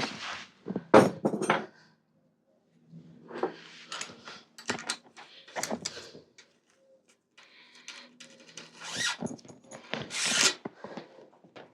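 Steel bicycle parts being handled and worked on during a teardown: metal clinks, knocks and rattles in three bursts, with scraping in between and a short pause near the start.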